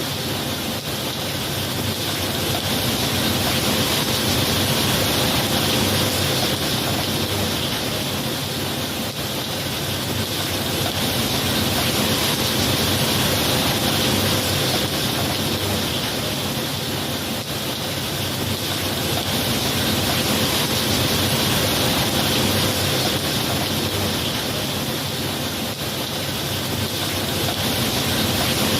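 Steady rain, a dense even hiss that gently swells and eases every several seconds.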